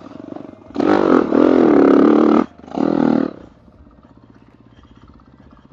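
Dirt bike engine revved hard for about a second and a half, then blipped once more briefly before dropping back to a low idle.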